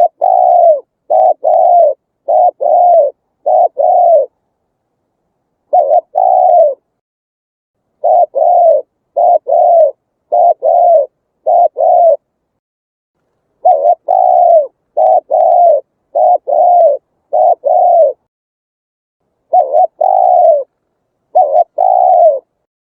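Spotted dove cooing its song: phrases of several short, slightly falling coo notes, with a pause of a second or more between phrases.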